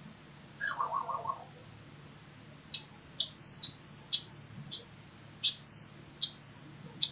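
Small dog whining in short, high-pitched squeaks, one every half second to a second, begging for a bone-shaped treat held out of reach; a brief burst of warbling whimpers comes about a second in.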